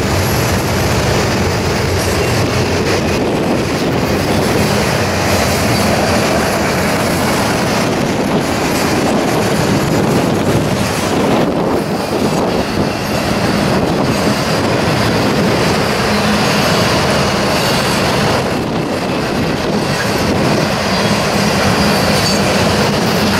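Freight train cars rolling past at a steady pace, steel wheels running over the rail with a continuous rumble and clatter, and a faint high wheel squeal at times.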